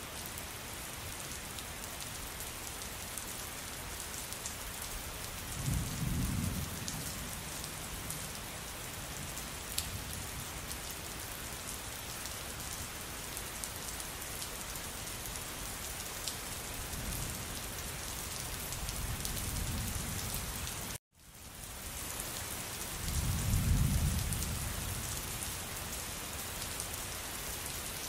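Steady heavy rain falling, with low rolls of thunder rumbling up about six seconds in, again around seventeen to twenty seconds, and loudest near the end. Just after two-thirds of the way through, the sound cuts out completely for an instant and fades back in.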